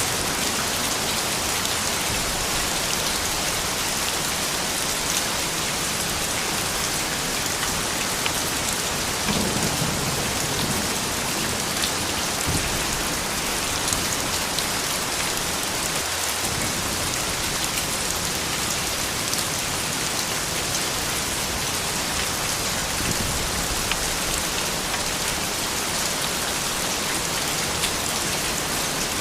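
Steady rain falling, a dense hiss of drops spattering on surfaces, with a brief low rumble about a third of the way through.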